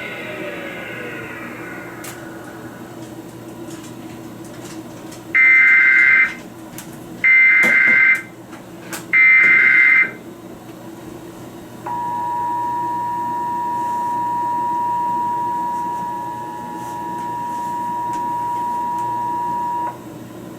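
Emergency Alert System header: three loud bursts of SAME digital data tones, each about a second long, then the two-tone EAS attention signal held steady for about eight seconds, heralding a severe thunderstorm warning. The tail of guitar music fades out at the very start.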